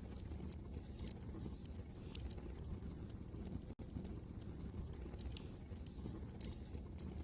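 Wood fire crackling in a fireplace, with irregular sharp pops and snaps over a steady low rumble of wind. The sound drops out for an instant just under four seconds in.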